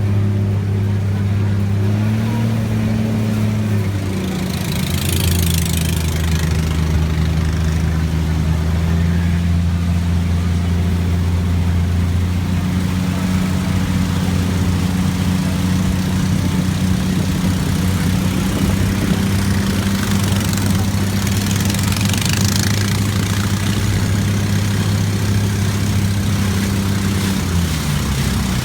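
Passenger riverboat's engine running steadily with a low hum, its pitch rising briefly about two seconds in and falling away near the end. Two short spells of hiss pass over it.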